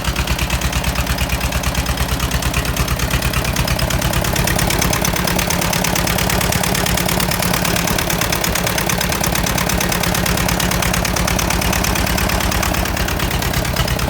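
Jiangxi half tractor's 18 hp JT engine running steadily with an even chugging beat, only just brought to life after hard starting. Its speed picks up about four seconds in and drops back near the end.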